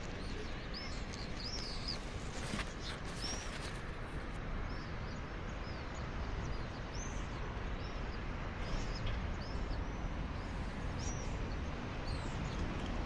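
Small birds chirping: short, high, arched chirps repeated at irregular intervals, over steady outdoor background noise with a low rumble.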